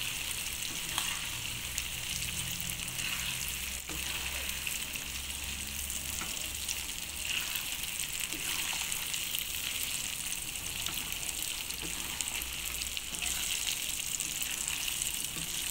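Chicken pieces frying in hot oil in a pan, sizzling steadily.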